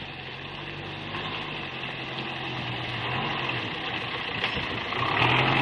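Truck engine running steadily with a low hum, getting louder towards the end.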